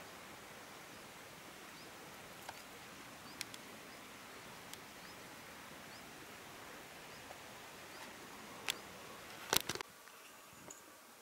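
Faint steady outdoor hiss with scattered short high chirps from a flock of birds, a few isolated clicks, and a quick cluster of sharp clicks near the end.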